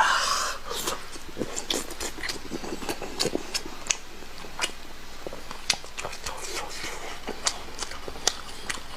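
A person eating close to the microphone: a short breathy gasp at the start, then irregular wet chewing and lip-smacking clicks.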